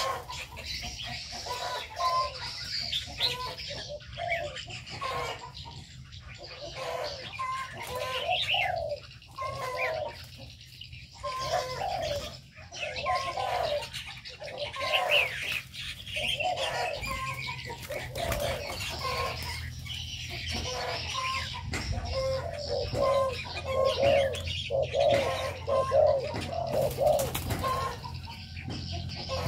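Aviary birds calling: doves cooing over and over, with small birds chirping higher above them.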